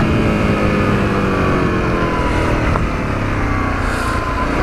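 Honda CRF250L's 250 cc single-cylinder four-stroke engine running, its pitch slowly falling as the motorcycle eases off.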